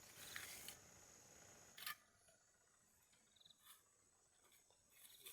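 Near silence: faint hiss with a single sharp click about two seconds in and a few small ticks after it.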